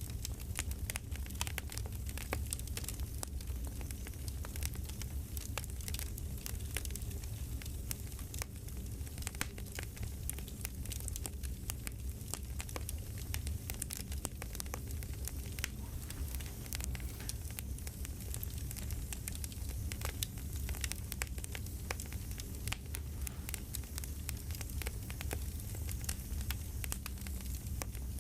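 Campfire crackling: a steady low rumble with many small, irregular pops and snaps.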